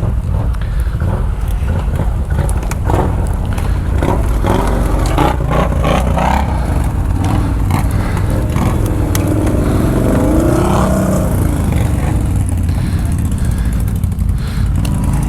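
Can-Am ATV engine running under way on rough ground, with a steady low rumble, a few short knocks a few seconds in, and its pitch rising and falling near the middle.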